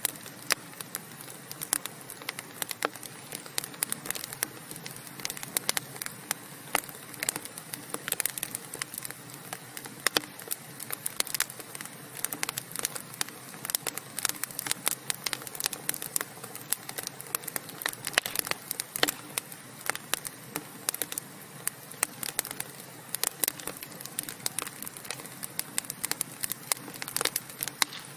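Burning wood logs crackling, with dense, irregular sharp pops and snaps over a soft steady hiss.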